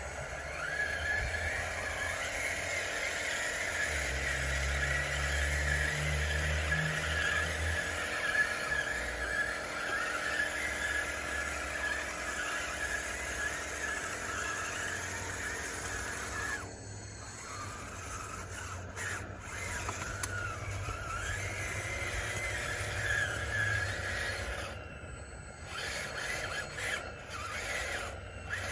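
DXR2 RC bulldozer running while it pushes dirt: a steady, high squealing whine from its drive and tracks, wavering with the load, that dips briefly a little past halfway and then resumes.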